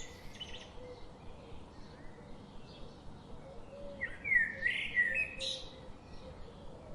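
Bird chirping in short gliding calls, a few near the start and a louder cluster about four seconds in, over a faint steady background hum.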